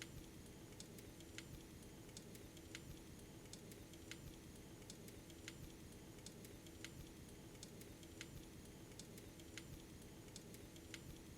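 Faint, fairly regular clicking, about one click every 0.7 seconds, over a steady low hum.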